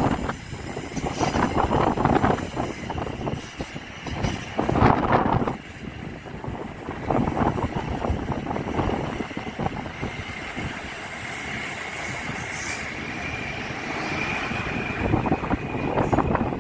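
Passenger train running through the station, with a thin high steady whine, while strong gusts of wind buffet the phone's microphone in irregular loud blasts.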